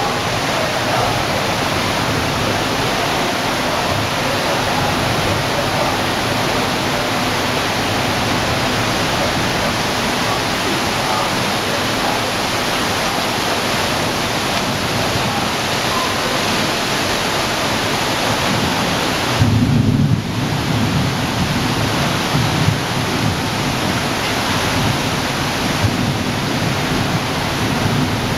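Heavy rain pouring down as a steady, dense hiss. About two-thirds of the way through, a short low rumble rises over it.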